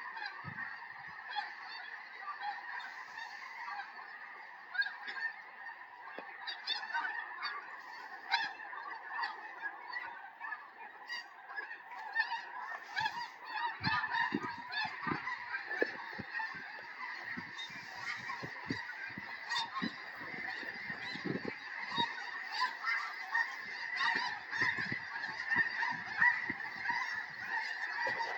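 A large flock of snow geese calling together: a dense, continuous chorus of many overlapping honks and yelps with no pauses, building a little louder in the second half.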